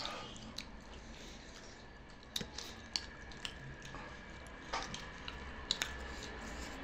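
Quiet eating sounds: people chewing biryani meat, with a scattering of small, sharp clicks and taps.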